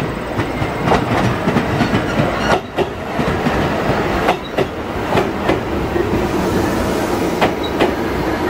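Electric local train pulling into the station along the platform: wheels clicking over rail joints over a steady rumble, with a steady hum coming in during the second half as it slows.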